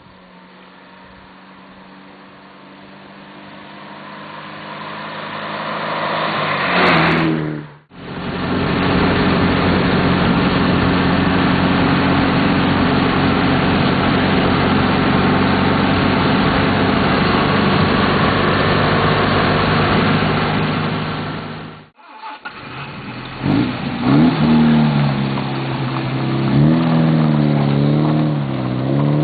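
Sunbeam Alpine four-cylinder engine. It first approaches and drives past, getting louder and dropping in pitch as it passes about 7 s in. It is then heard running steadily at cruise from inside the cabin, and near the end it is revved up and down a few times.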